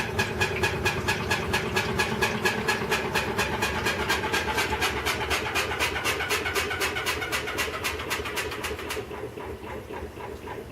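Maytag Centennial top-load washer running with a rhythmic, repeating noise that speeds up, about three to five beats a second; about nine seconds in the sharp beating stops and a lower rumble and hum remain, dying away.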